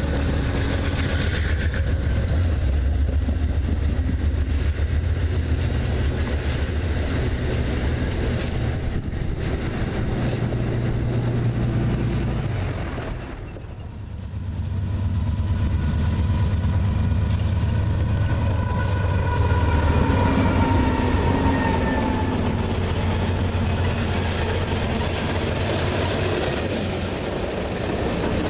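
Freight train rolling past on the rails, a steady low rumble of wheels and cars that dips briefly about halfway through, with a faint high wheel squeal in the second half.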